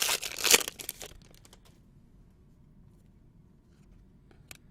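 Trading card pack wrapper crinkling and tearing open for about a second, followed by a single faint click near the end.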